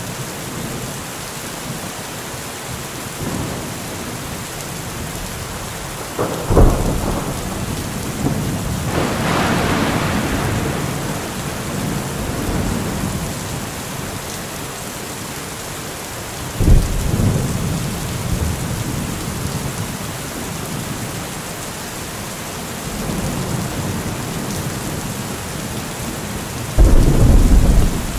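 Heavy rain falling steadily through a thunderstorm, with thunder: a sharp crack about six and a half seconds in, a long rolling rumble around ten seconds, another crack near seventeen seconds, and a loud crack near the end.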